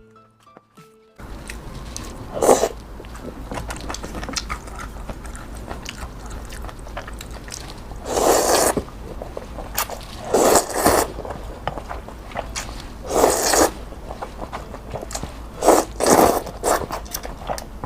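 Close-miked eating: chewing, broken by about six louder noisy bursts of under a second each, every two to three seconds.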